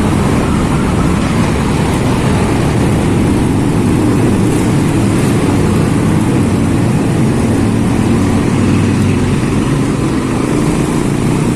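Engines of a group of large-displacement motorcycles running through a road tunnel: a loud, steady, dense rumble.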